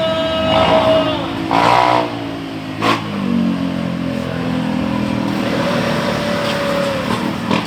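A motor running with a steady hum whose pitch shifts, higher in the first second or so and lower and steadier from about three seconds in.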